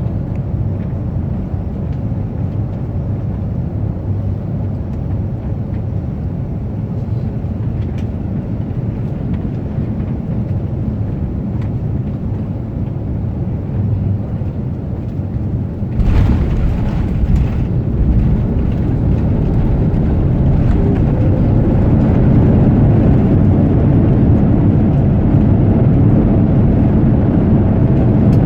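Airbus A350-900 cabin noise on landing: a steady low rumble that jumps sharply about halfway through, with a short burst of hiss, as the wheels touch down, then grows louder and stays louder during the rollout.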